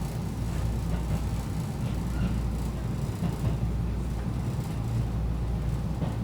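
JR Central local train running, a steady low rumble of wheels and motors heard inside the carriage.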